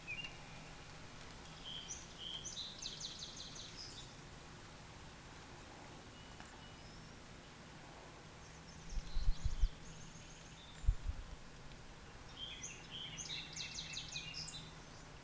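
Faint outdoor ambience with a bird singing in the background: two short bursts of quick, high twittering notes, a couple of seconds in and again near the end. Two low thumps come in the middle.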